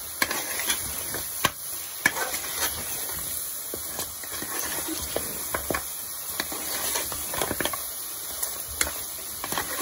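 Meat and spice masala sizzling as it is fried (bhuna) in a stainless steel pot, with a metal spoon scraping and knocking against the pot in frequent short clicks while stirring.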